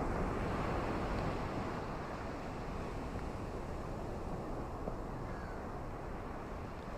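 Steady wash of ocean surf, a little louder at the start and easing slightly.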